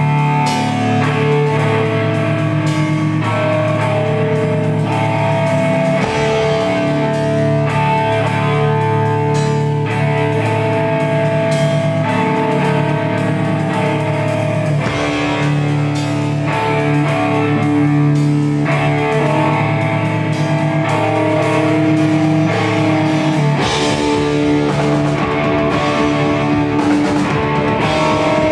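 Rock band playing live: guitars carrying sustained notes that change every few seconds over a drum kit, with no singing.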